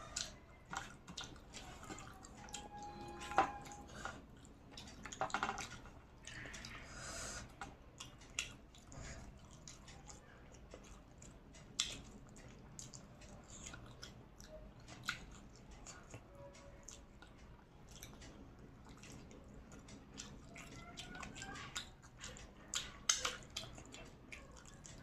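Chewing and mouth sounds of a person eating a meal, with scattered small clicks and taps.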